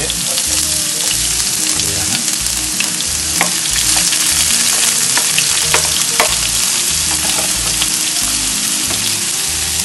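Chopped onion sizzling in hot coconut oil in a frying pan: a loud, steady hiss of frying, with a few sharp clicks scattered through it.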